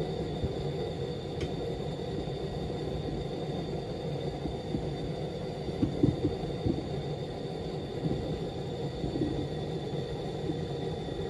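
Propane-and-air combustion chamber burning steadily with continuous burner noise, a faint steady high whine above it, and a few louder pops about six seconds in.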